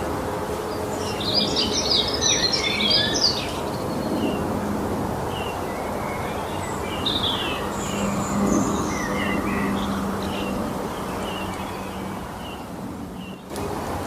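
Forest birds singing: a rapid flurry of high notes about one to three seconds in, then scattered short chirps and calls, over a steady background hiss and a faint low hum.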